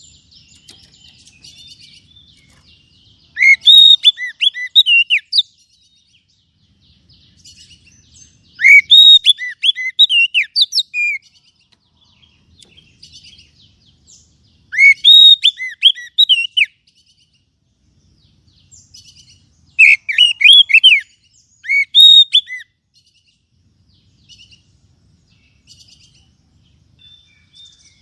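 Oriental magpie-robin (kacer) singing: four loud bursts of rising and falling whistled notes, about every five or six seconds, with softer high chattering between them.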